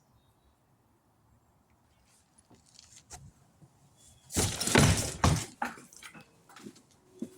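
Clattering and knocking: a few clicks, then a loud rattling clatter lasting about a second, followed by scattered sharp knocks.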